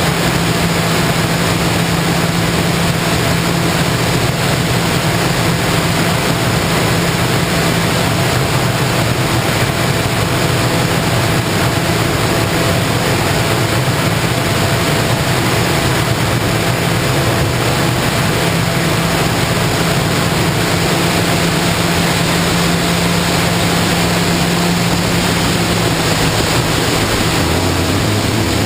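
FPV model airplane in flight: the motor and propeller drone low under a steady rush of airflow noise, the drone's pitch shifting a few times with throttle changes.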